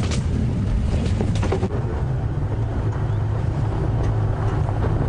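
Safari game-drive vehicle's engine running steadily as it drives through bush, with a few short knocks or scrapes in the first second and a half.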